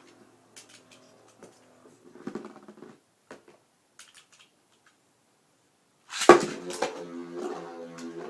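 Beyblade spinning tops clattering in a plastic stadium: faint clicks and a fading hum at first, then about six seconds in a sudden loud clatter as the tops are launched, followed by a steady spinning hum with knocks as they clash.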